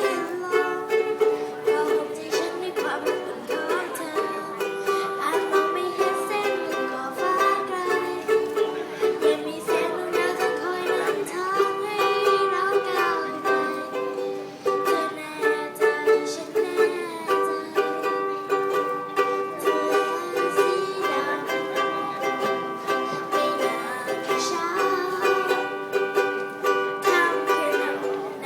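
Ukulele music: plucked and strummed chords with a melody line, played continuously.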